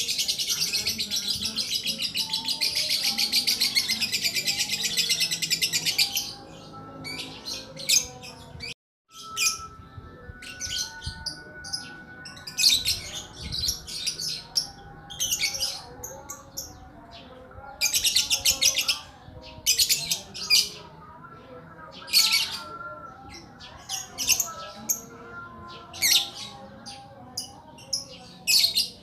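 Small songbird known in Indonesia as the lakbet calling: a rapid high chattering trill for about six seconds, then, after a brief break, a series of short high chirping phrases repeated every second or two.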